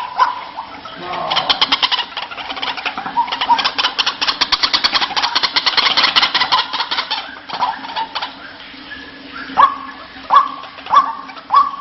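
White-breasted waterhen calling: a long run of rapid, harsh repeated notes, then, about two-thirds of the way through, a series of short rising calls coming a little faster than one a second.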